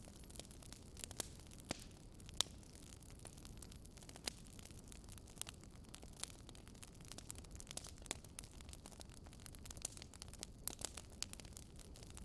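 Wood fire crackling in a fireplace: irregular sharp pops and snaps over a low, steady rumble of flame. The sharpest pop comes about two and a half seconds in.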